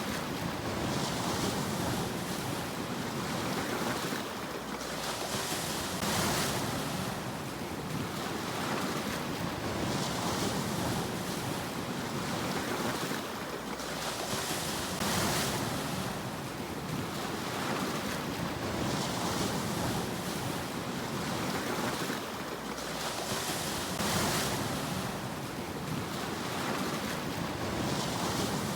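Sea waves washing in, a steady surf hiss that swells with each new wave about every four to five seconds.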